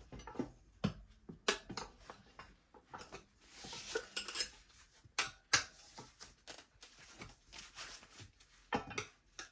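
Metal tire irons clinking and scraping against a dirt bike wheel rim as the tire bead is levered on in small bites. Irregular sharp clicks, with a scraping rub about four seconds in.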